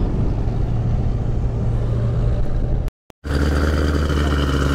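Parked cars' engines idling steadily. After a brief dropout about three seconds in, a deeper, steady idle from a C7 Corvette's V8.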